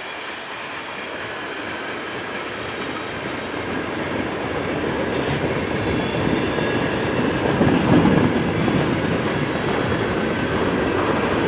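CN freight train rolling past, a steady noise of wheels on rails that grows a little louder as it goes.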